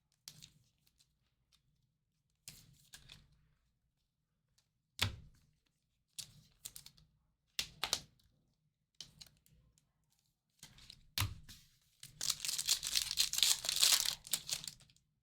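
Trading cards and packaging handled with scattered short rustles and clicks, then near the end about three seconds of continuous tearing and crinkling as a foil card pack is ripped open.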